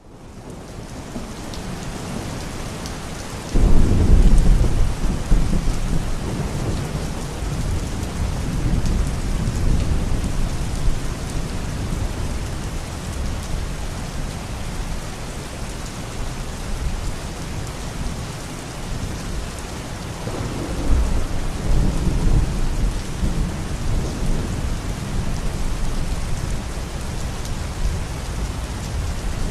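Steady rain hiss fading in from silence, with a loud low thunder rumble breaking in a few seconds in and rolling on for several seconds, and a second, softer rumble about two-thirds of the way through.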